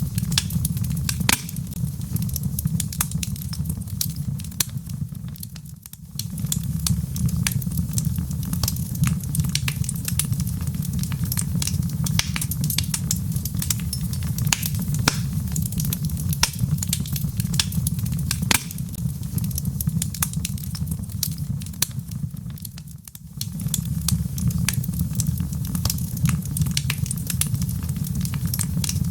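Log fire crackling in a fireplace: frequent sharp pops and snaps over a steady low rumble of the flames. The sound fades down briefly twice, about six seconds in and again near 23 seconds, then comes straight back.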